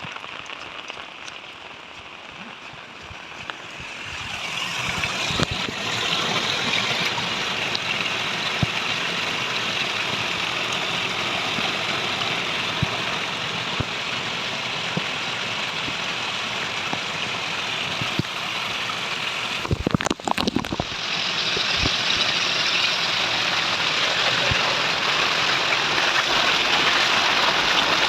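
Steady rushing noise of water in a cyclone flood, growing louder about four seconds in, with a brief break and a few knocks near twenty seconds.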